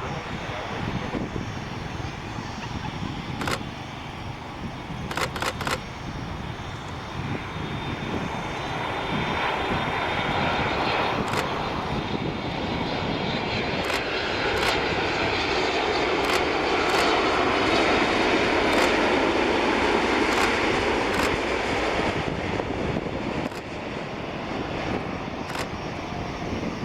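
Boeing 787-8 airliner's jet engines, a steady rushing that grows louder for several seconds as the plane passes close, then fades. Occasional sharp clicks are heard over it.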